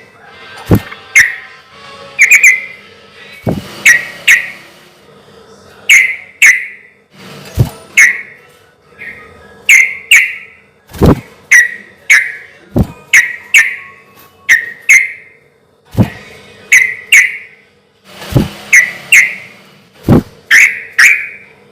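Yellow-vented bulbul (trucukan) singing loudly and continuously: short whistled notes, mostly in quick pairs and threes, with sharp clicks among them.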